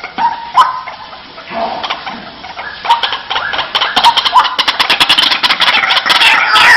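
White-breasted waterhen calling: repeated harsh notes that build, about halfway through, into a fast, rapid-fire series of pulses that grows louder, with falling notes near the end.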